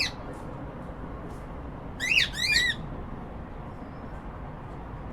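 Cockatiel giving short chirping calls, a quick pair about two seconds in, each rising and falling in pitch, with the end of another call right at the start.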